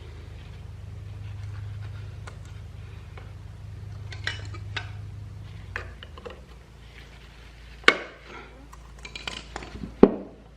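Metallic clinks and knocks of metal parts being handled, with two sharper knocks in the second half. A steady low hum runs underneath and stops about six seconds in.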